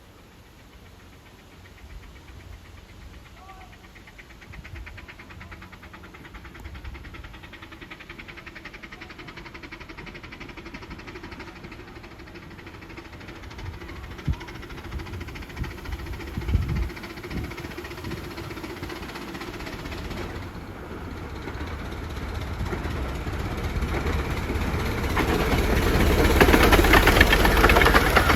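A 15-inch gauge steam train running towards the listener, growing steadily louder and loudest near the end.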